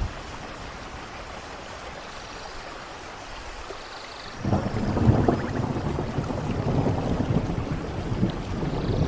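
Steady rain hiss, then about halfway through a low rumble of thunder comes in suddenly and keeps building.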